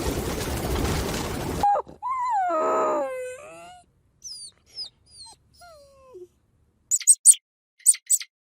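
A stretch of noisy hiss that cuts off abruptly, then a dog whining: one long whine that rises and falls, followed by several short, falling whimpers. Quick high squeaks come near the end.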